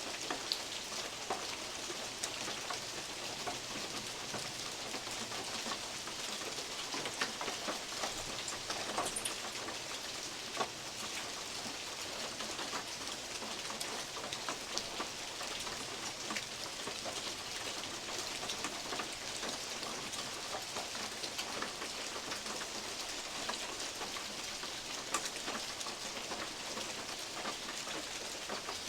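Steady rain falling in a forest, with big drops from oak leaves tapping irregularly on a metal roof. Now and then a single louder drop stands out from the steady patter.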